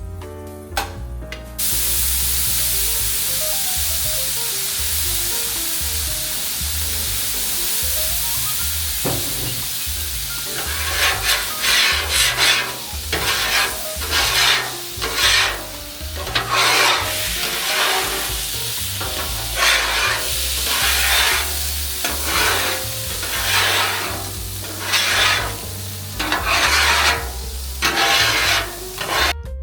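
Food sizzling on a hot griddle, a steady hiss, with a run of scraping strokes about once a second from around ten seconds in, as a spatula works the cooking surface.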